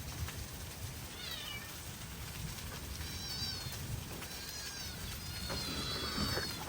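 A small animal calling several times with high-pitched, wavering cries, the last one drawn out, over a steady low background noise.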